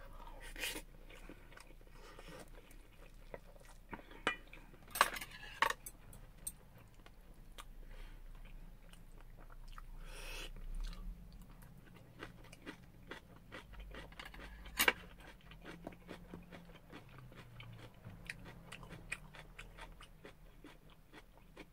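A person chewing mouthfuls of shrimp fried rice close to the microphone, with scattered sharp clicks of utensils against a stainless steel bowl, the loudest about 15 seconds in.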